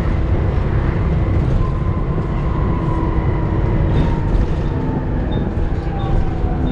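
Volvo B7TL double-decker bus's six-cylinder diesel and drivetrain heard from on board, a heavy rumble with a steady hum and a gear whine that slowly falls in pitch from about a second and a half in.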